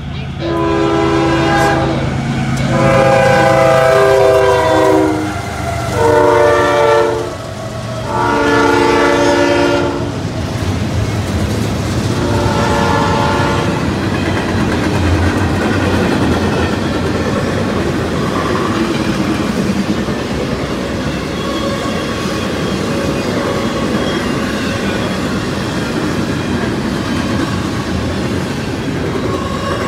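A CSX freight locomotive's air horn sounding a series of blasts over the first ten seconds, the third one short, for the grade crossing, with one more short blast about twelve seconds in. After that, the steady rumble and rhythmic clatter of a long train of double-stack container cars rolling past.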